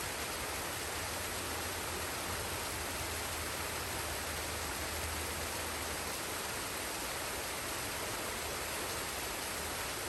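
Waterfall and stream water rushing steadily in an even, unbroken wash of noise.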